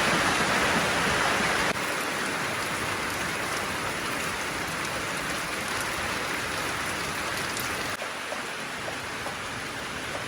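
Heavy rain falling steadily, a dense hiss. The level drops suddenly about two seconds in and again about eight seconds in.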